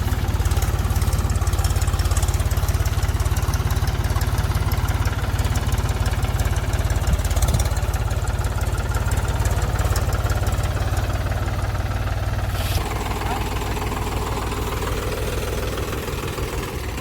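Mahindra 275 DI TU tractor's diesel engine running steadily while driving a thresher. The sound changes and drops slightly about 13 seconds in.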